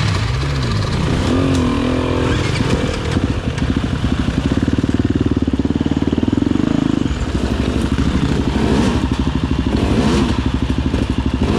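Enduro dirt bike engine revving hard under load on a rocky climb. The pitch rises about a second in, holds high for a few seconds, then drops back to a lower, pulsing run.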